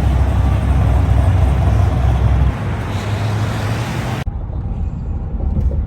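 Steady low road rumble inside a moving car. About four seconds in, an abrupt cut leaves a quieter stretch of the same kind of driving noise.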